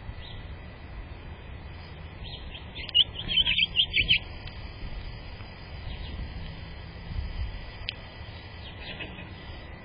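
Small bird chirping: a quick run of high chirps about three seconds in, with a few fainter calls later, over a steady low rumble.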